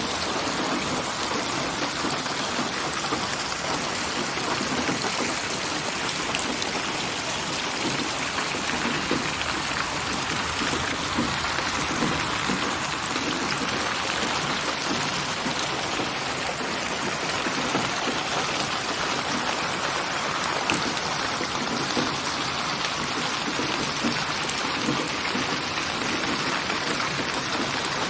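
Steady rain falling, an even hiss of rainfall with scattered individual drops hitting a surface.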